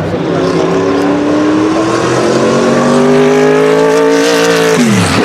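Sauber Mercedes C9's turbocharged 5.0-litre V8 race engine accelerating, its note rising steadily for about four and a half seconds. The pitch then drops sharply near the end as the revs fall. A steady lower engine note runs underneath.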